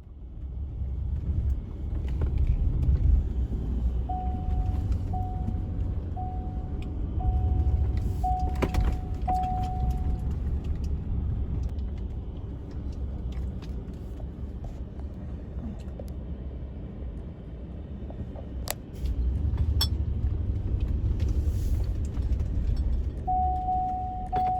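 A motor vehicle's engine rumbling steadily, with a pitched electronic warning chime that beeps about once a second for several seconds and starts again near the end, and a few sharp clicks.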